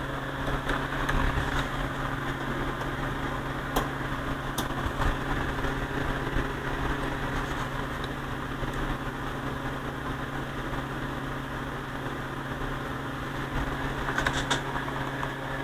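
Steady electrical hum and hiss from audio test gear on a workbench, with a few short clicks about four seconds in and again near the end.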